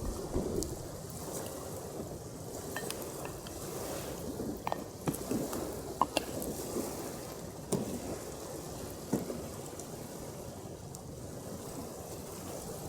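Water lapping and trickling at a lakeshore, with a handful of light clicks and knocks.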